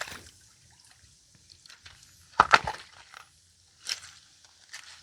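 Footsteps on the rocks and gravel of a creek bed: a few scattered steps, the loudest a short clatter a little under halfway through.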